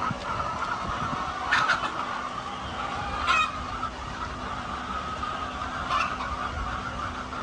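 A flock of chickens clucking steadily, with louder single squawks about a second and a half in, past three seconds, and at six seconds, over a steady low rumble.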